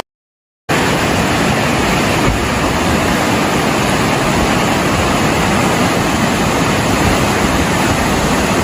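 Fast-flowing floodwater rushing steadily, starting abruptly a moment in.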